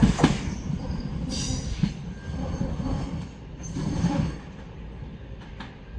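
Class 465 Networker electric train running through the station: a sharp knock at the start, steady rumbling, and wheels squealing in two short bursts. The sound dies away after the second squeal.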